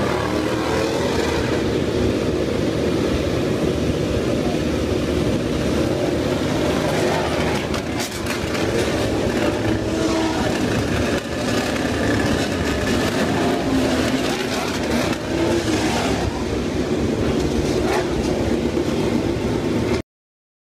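MotoGP racing motorcycle engines running and revving, with voices mixed in. The sound cuts off suddenly near the end.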